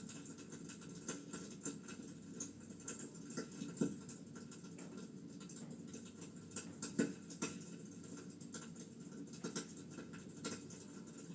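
Wood fire in a fireplace crackling: irregular sharp pops and snaps over a steady low background, with a few louder pops among them.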